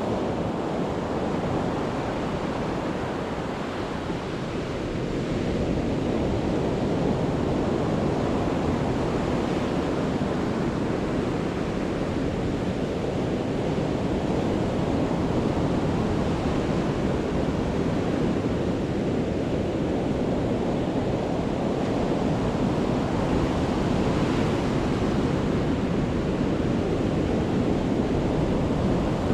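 Sea waves breaking and washing on a beach in a continuous rush, swelling and easing with each wave, with some wind on the microphone.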